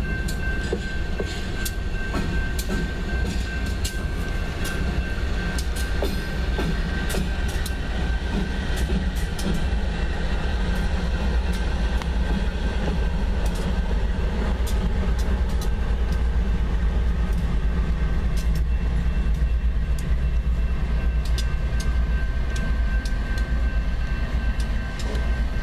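Double-stack freight train rolling past with diesel locomotives in the consist: a steady heavy rumble of wheels on rail, with scattered sharp clicks of wheels over rail joints and a thin steady high tone over it.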